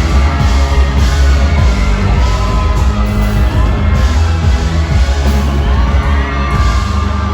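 Loud live band music with a singing voice over heavy bass and drums, the crowd whooping and yelling along; the bass overloads the recording.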